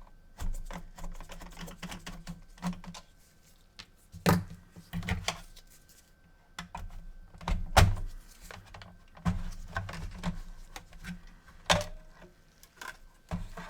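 Irregular clicks, taps and knocks from handling small plastic and metal parts and tools while working on the opened PS4, with a few louder knocks about 4, 8 and 12 seconds in.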